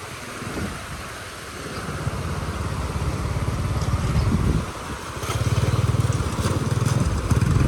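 A small engine running, growing louder twice as it pulls harder, with a short drop in between.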